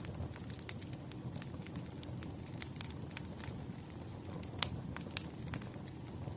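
Wood fire burning with a steady low rumble and frequent irregular crackles and pops, the sharpest pops about four and a half and five seconds in.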